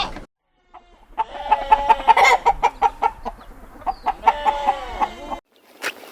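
Chickens clucking, a run of wavering pitched calls with short clicky notes, starting about a second in and cutting off abruptly near the end.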